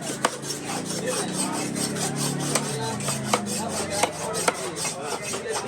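Knife scraping along a fish, a continuous rasping scrape broken by sharp knocks every half second to second: the scales being scraped off the fish.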